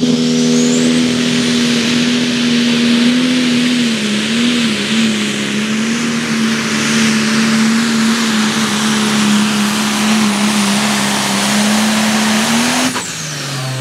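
Turbocharged diesel engine of an International pro stock pulling tractor running flat out under load down the track, its note held nearly steady with a brief wobble about four seconds in, over a high turbo whistle. About thirteen seconds in the throttle comes off and the engine note and whistle fall away as the pass ends.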